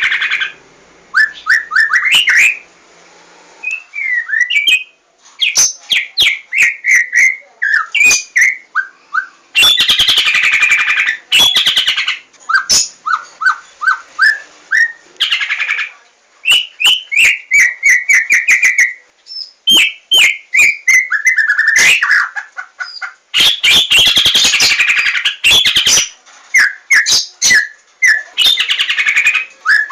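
White-rumped shama (Javan 'larwo' murai batu) singing loud, varied phrases of clear whistles and rapid trills, broken several times by short harsh, scratchy bursts.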